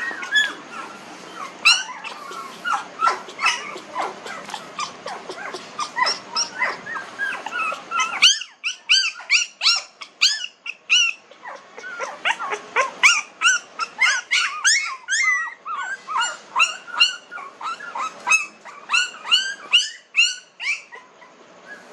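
A litter of puppies about 19 days old whimpering and squeaking: short, high-pitched cries, several a second from more than one pup, overlapping throughout.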